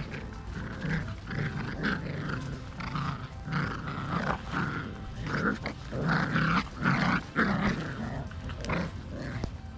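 Miniature Australian Cattle Dog puppies growling at each other in play, in many short, irregular bursts that come thicker and louder past the middle.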